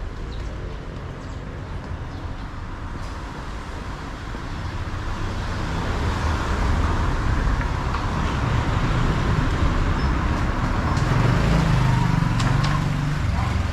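Street traffic: a motor vehicle passing close by, its engine rumble and tyre noise swelling about halfway through and easing off near the end.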